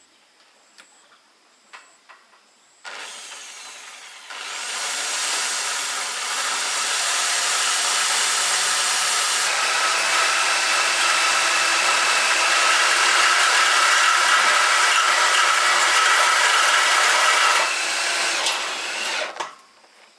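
Handheld electric power tool starts up about three seconds in. It comes up to full speed and runs with a steady whine, louder under load, for about fifteen seconds, then winds down near the end.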